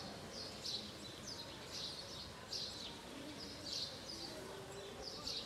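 A small bird chirping over and over, about two short high chirps a second, over a faint outdoor background hum.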